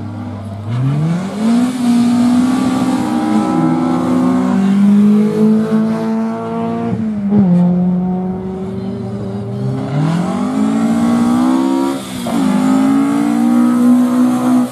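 Rally car engine accelerating hard through the gears: the revs climb, hold, and drop sharply at each gear change, about seven seconds in, again near twelve seconds, and once more right at the end.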